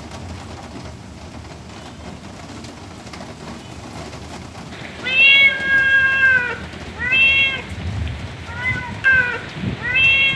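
Steady rain hiss, then about halfway through a cat starts meowing: one long meow followed by four shorter ones.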